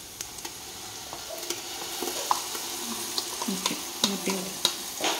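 Onions, green chillies and chilli powder frying in oil in a pot, a steady sizzle that picks up a little as spoonfuls of ginger-garlic paste go in. Several light clicks of a steel spoon knocking against the bowl and pot.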